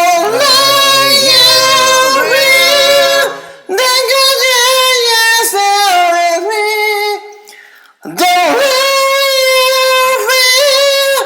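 A cappella singing in three sung phrases with short breaks about 3.5 and 7.5 seconds in, with no piano or other instruments.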